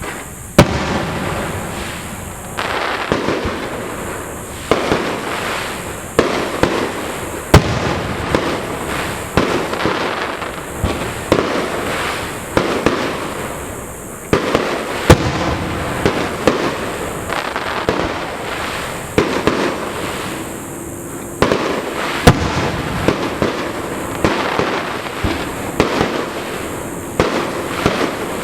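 Aerial firework shells bursting in quick succession. Sharp bangs, a few much louder than the rest, come over a near-continuous rumble and crackle.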